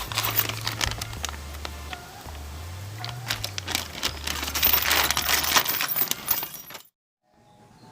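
Metallic clinking and rattling as the exhaust mounting springs are hooked on to fix the muffler canister to the header pipe, over background music. Everything cuts out briefly near the end.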